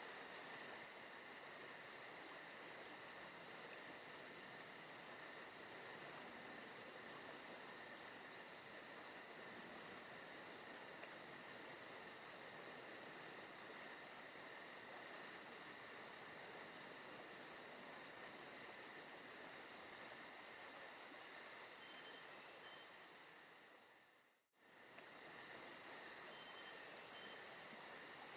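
Faint forest night ambience of insects chirping steadily in a fast, even pulse. About 24 seconds in it fades out to near silence for a moment and comes straight back, like the seam of a looped ambience track.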